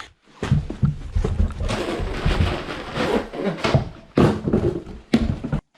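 A person's impression of a cat: a rough, breathy throat noise in several long pushes that stops suddenly near the end.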